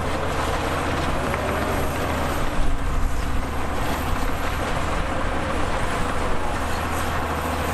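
Heavy diesel earthmoving machinery running steadily under load, with a few sharp knocks about two and a half to three seconds in.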